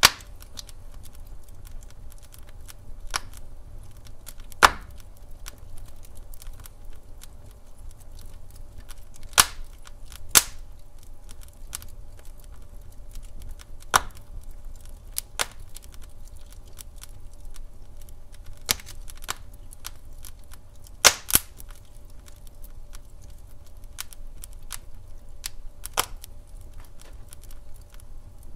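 Wood fire crackling: irregular sharp pops and snaps every second or two over a low steady rumble of burning logs, with louder pops about 4.5 s, 9.5–10.5 s and 21 s in.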